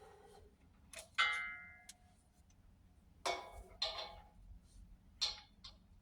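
Metal clanks and knocks from handling a propane tank and its fittings. One sharp clank rings briefly about a second in, then three duller knocks follow between about three and five seconds in.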